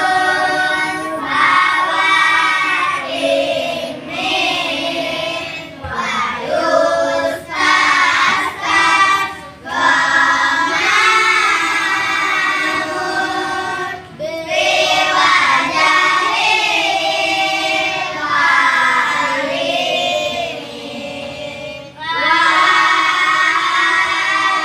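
Children singing together as a group: a sung melody in phrases with short breaths between them.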